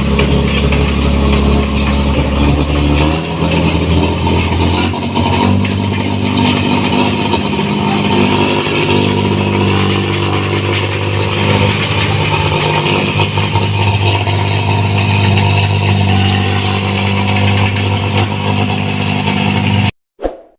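New Holland 1545 combine harvester's diesel engine running hard through a loud exhaust, its speed rising about three seconds in and then holding steady. The sound cuts off abruptly near the end, followed by a short ding.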